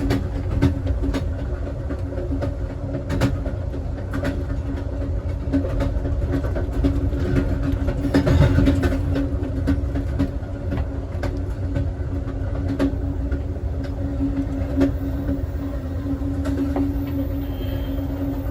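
Amtrak Southwest Chief passenger car rolling along the track: a steady low rumble of wheels on rail with a constant hum and scattered clicks and knocks, swelling briefly about eight seconds in.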